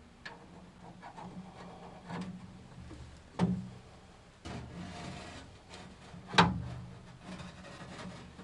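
A series of knocks and clunks, the loudest about a third of the way in and again about three quarters in, with rubbing and scraping in between, as of hard objects being handled and set down.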